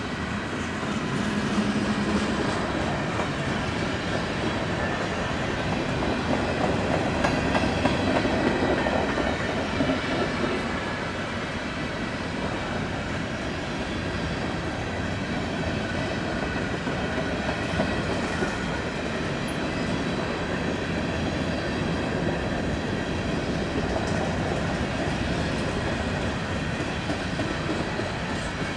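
Railroad cars rolling past, a steady rolling rumble with wheels clattering over the rail joints. It swells briefly about a quarter of the way through.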